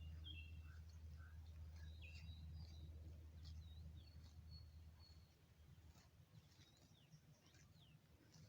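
Faint forest birdsong: several small birds chirping and giving short whistled notes, some falling in pitch, over a low rumble that fades about halfway through.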